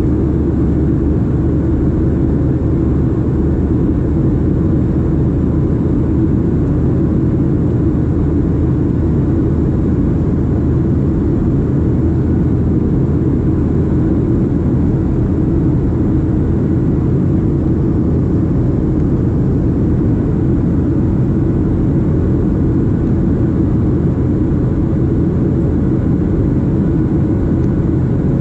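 Boeing 737-700 in the climb: its CFM56-7B engines and the airflow make a steady low drone, with a few faint steady tones riding above it.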